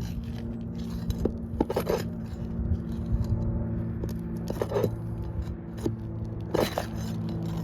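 Pry tool scraping and clicking under brittle roof shingles to get at the nails, in irregular bursts with a few sharper cracks about 2, 5 and 6.5 seconds in.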